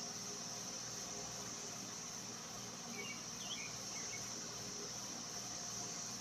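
Steady high-pitched drone of an insect chorus, with a few faint short chirps about three seconds in.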